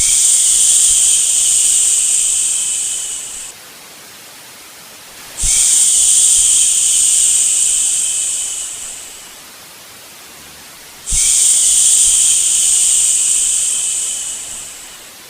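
A long shushing "shhh", repeated three times about every five and a half seconds, each lasting about four seconds and tapering off, over a fainter steady white-noise hiss; the sound is made to lull a baby to sleep.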